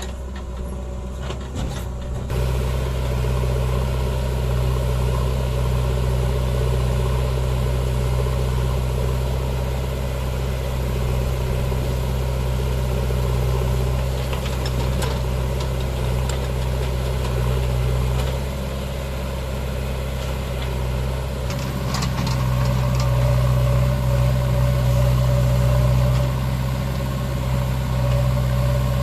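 Diesel engine of a JCB 3DX backhoe loader running steadily as it works. It picks up about two seconds in, eases off for a few seconds past the middle, then speeds up again, with a few faint clanks over the drone.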